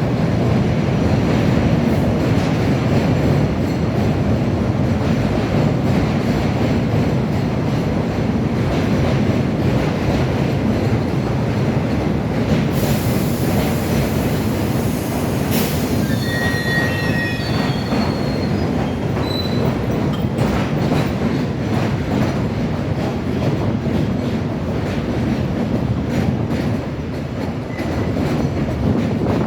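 Elevated subway train running on the tracks overhead: a long, loud, steady rumble with a brief high wheel squeal about halfway through.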